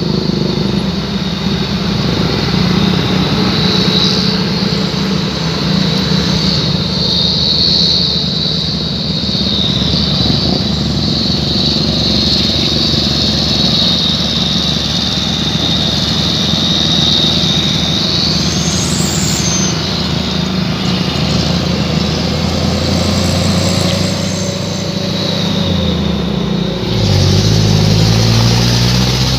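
Truck engines running through open, straight-through 'chung Takalar' exhausts, a loud steady drone as the trucks pull along. About three-quarters of the way in, one engine revs up, rising in pitch and getting louder.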